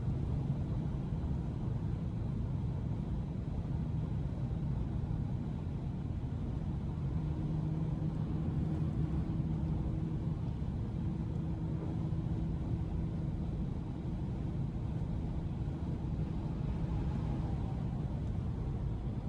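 2012 Audi S5's supercharged 3.0 V6 running at a steady pace, with low road and tyre rumble. A steady engine hum comes in about a third of the way through and holds until near the end.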